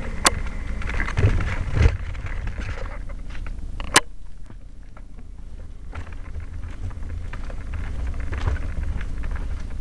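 Wind rumbling on the microphone while riding along a dirt trail, with bumps and knocks from the ride. Two sharp clicks stand out, one just after the start and one about four seconds in.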